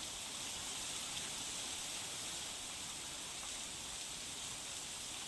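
Heavy monsoon rain falling with a steady, even hiss.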